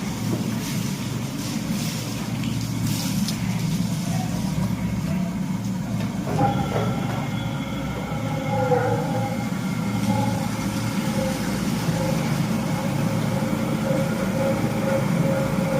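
Steady low mechanical rumble, like a motor running, with a few clicks in the first few seconds.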